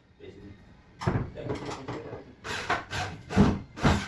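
Wooden furniture parts being handled: a few knocks and bumps, the two loudest near the end.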